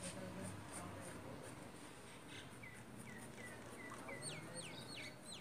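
Faint bird calls over a low background hiss: a bird chirping in a quick series of short notes, about three a second, from about halfway in, then several quick high notes sliding downward near the end.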